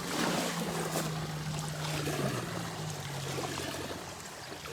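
Water lapping and splashing gently along a lakeshore, with a steady low motor hum that drops slightly in pitch a little past halfway and fades out near the end.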